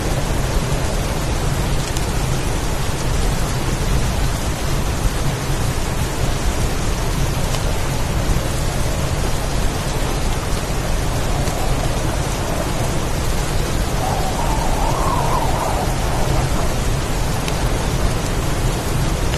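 Heavy rainstorm: a steady downpour of rain with a deep, constant low rumble from the storm.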